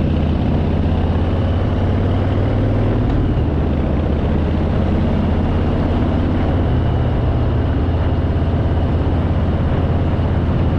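Harley-Davidson Fat Boy's V-twin engine running steadily while riding, its pitch shifting slightly a few times.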